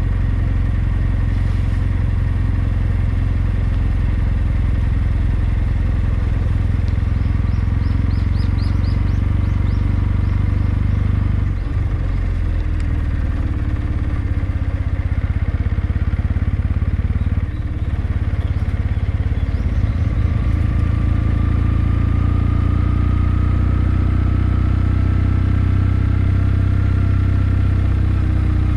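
Kawasaki W650's air-cooled parallel-twin engine running steadily while the motorcycle is ridden, its note dropping out briefly twice, about a third and about two thirds of the way through.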